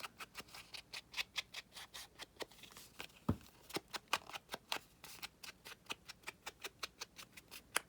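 Rapid, irregular light clicks of an ink pad being dabbed and tapped along the edges of a paper card, with one louder knock about three seconds in.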